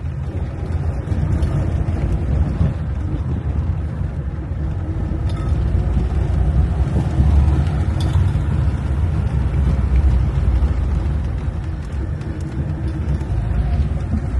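Soviet-era Lada car being driven, its engine and road rumble running steadily low and loud, swelling in the middle and easing toward the end.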